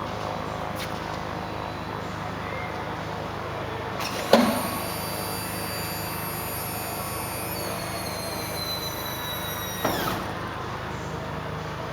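Cessna R182's electro-hydraulic landing-gear power pack running during a gear swing, over a steady low hum. Its high whine starts with a sharp clunk, sags slightly in pitch as it works, and cuts off with a thump about six seconds later.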